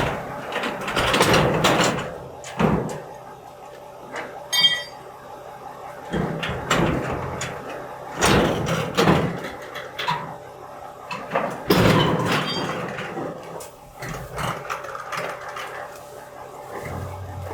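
Garbage truck running with a steady hum, over which come a series of clanks and bangs, and a brief high-pitched tone about four and a half seconds in.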